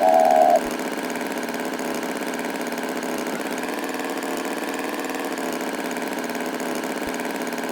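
Tractor engine idling steadily, a sound effect in a cartoon, with a short pitched call over it in the first half-second.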